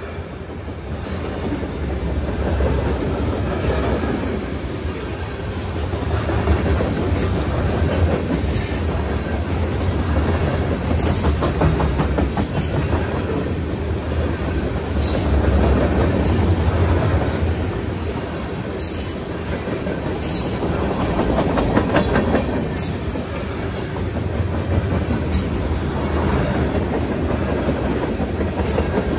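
Railroad cars rolling past in a steady low rumble, with the clack of wheels over rail joints every second or two.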